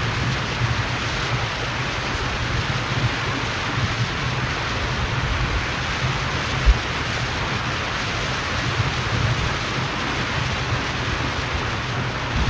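Steady road and wind noise of a car being driven: a low rumble under a broad hiss, with a single low thump a little past halfway through.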